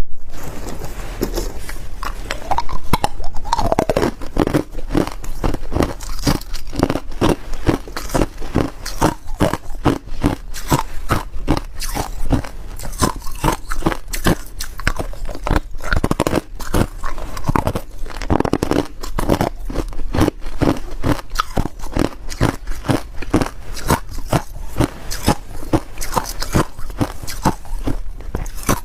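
A person biting and chewing ice: a steady run of sharp crunches, several a second.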